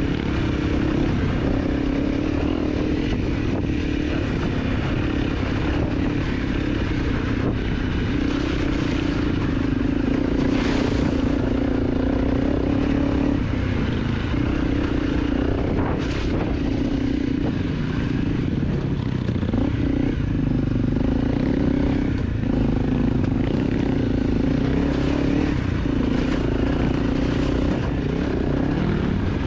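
250 cc dirt bike engine running under throttle on a rough trail, its note dipping briefly every few seconds as the throttle comes off and on, with occasional clattering knocks.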